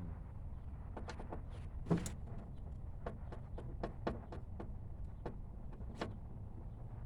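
Irregular light clicks and taps of hand-tool work on a car's interior door panel, as screws are taken out around the inside door handle and its bezel; the sharpest click comes about two seconds in.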